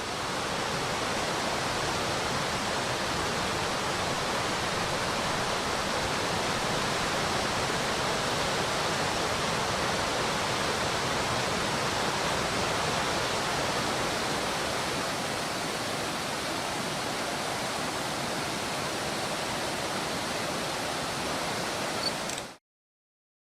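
Mountain stream rushing over rocks in fast rapids, a steady full rush of water that cuts off suddenly near the end.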